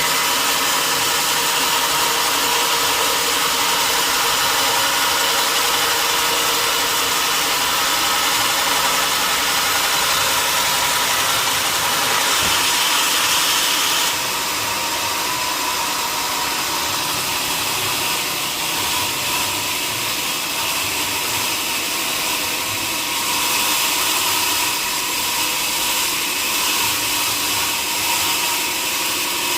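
Sawmill machinery running steadily: a dense hiss with a steady hum under it. The sound shifts abruptly about halfway through.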